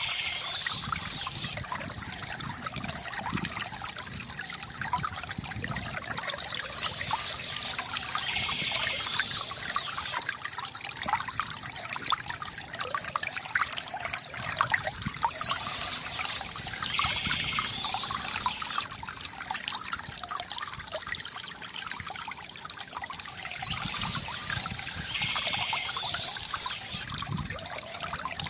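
A small stream trickling and babbling steadily over rocks, full of small splashes. A brighter, hissier surge of water recurs about every eight and a half seconds.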